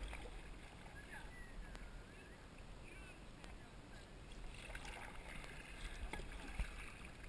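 Quiet sounds of a kayak being paddled on calm river water, with a few light clicks and splashes.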